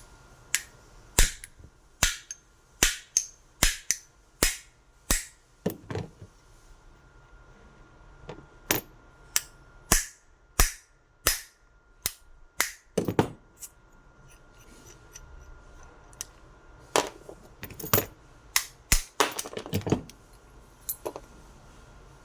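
Repeated sharp hammer strikes on metal, about one a second in three runs, while working an angle grinder's hub bearing loose or into place. A faint steady hum runs underneath.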